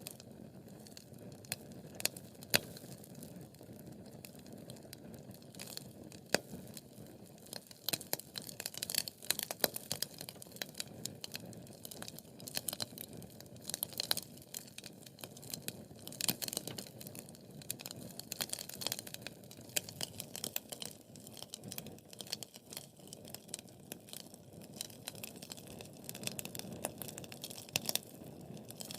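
Wood fire burning in a fireplace, a steady low rumble of flames with irregular crackles and sharp pops from the burning logs, the crackling growing busier about a third of the way in.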